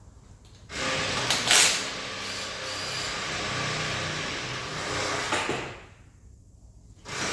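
A loud, steady hiss of pressurised spray, with a brief louder burst about a second and a half in. It stops about six seconds in and starts again near the end.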